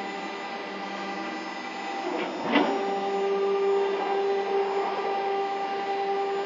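CNC router running on test with a steady electric whine made of a few fixed tones. About two and a half seconds in, the pitch sweeps briefly and the whine settles on a different, slightly louder tone.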